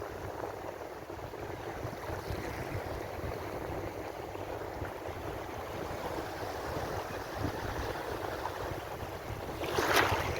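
Ocean waves washing steadily on the shore, with one louder, brighter splash of breaking surf near the end.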